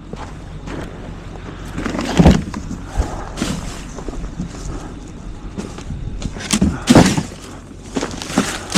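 Garbage truck engine running with a steady low hum, broken by several sharp clunks and knocks, the loudest about two seconds in and again near seven seconds.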